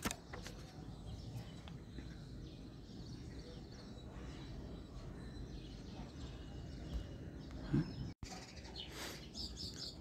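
Faint bird chirps over steady low background noise, with a brief complete gap in the audio about eight seconds in.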